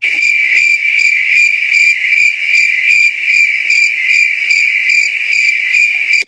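Cricket chirping: a steady high trill with a regular pulse about two or three times a second, cut in and out abruptly.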